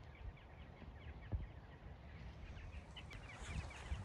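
Small birds chirping and twittering faintly, the chirps coming thicker in the second half, over a few low dull thumps.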